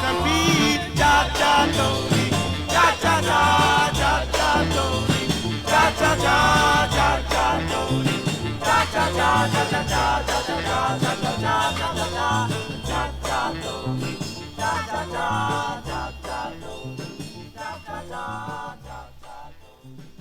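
Vocal-group cha-cha record played from a 45 rpm single: the band plays on without words and fades out over the last several seconds.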